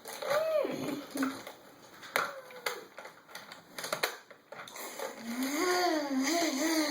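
A child's voice making toy-car engine noises: a falling 'vroom' about half a second in and a wavering engine hum over the last two seconds. In between come a few sharp plastic clicks of the toy cars and track.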